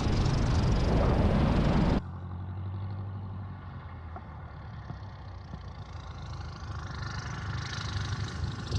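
Light aircraft engine: for about two seconds a loud engine and wind noise, which cuts off abruptly to a quieter, steady low engine hum that grows louder near the end.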